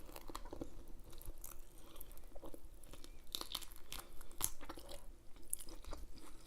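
Close-miked chewing: a person eating, with irregular wet mouth clicks and smacks.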